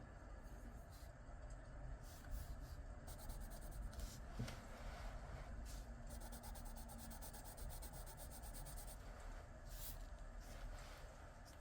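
Coloured pencil scratching on paper while filling in a shape, with runs of rapid back-and-forth shading strokes.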